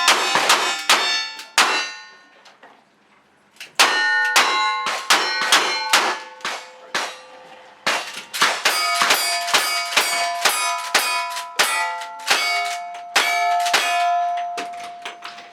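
A fast string of gunshots, each answered by the ringing clang of a struck steel target. The shooting pauses for about two seconds near the start, then resumes in a longer rapid run.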